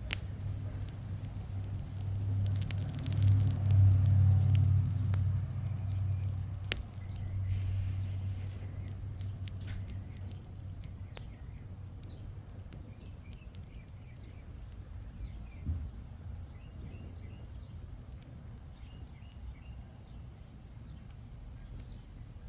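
Small wood campfire crackling with scattered sharp pops, under a low rumble that swells to its loudest a few seconds in and fades away over about ten seconds. Short bird chirps come in the second half.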